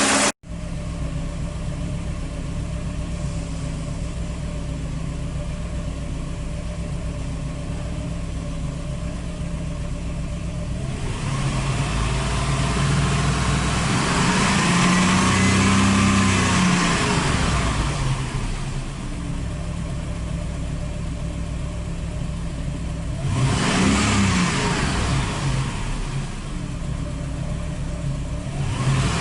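1989 Mercedes-Benz 420SEL's 4.2-litre V8 idling steadily, then revved up and back down to idle twice: a longer rev about a third of the way in and a short blip later. It begins to rise again near the end.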